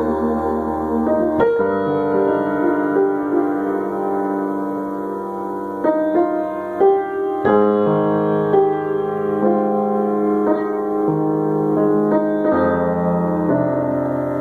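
Instrumental passage of a slow song without singing: a piano plays soft, held chords, with new chords struck every few seconds.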